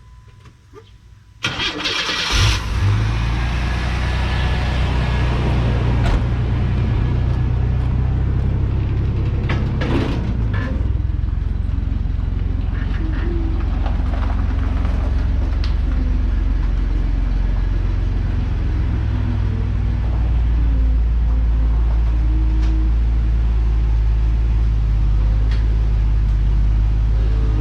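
Chevrolet S-10 pickup's engine cranking and catching about a second and a half in, then idling steadily.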